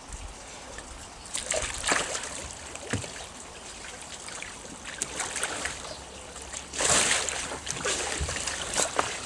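Pond water splashing and sloshing around a kayak as the paddler leans back in it: irregular splashes, the biggest about seven seconds in.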